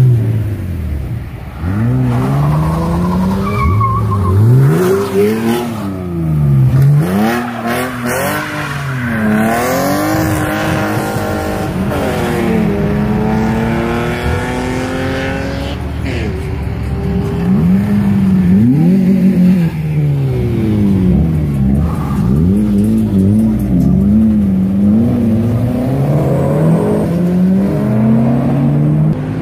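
Car engines revving hard and accelerating away, the pitch climbing and dropping again and again as the gears change, with a loud pass-by in the middle.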